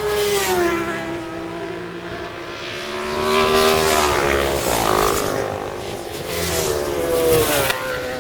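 Racing motorcycles passing at speed on a road circuit, one after another. Each engine note swells as a bike approaches and falls away in pitch as it goes by, with revs rising and dropping through the gears.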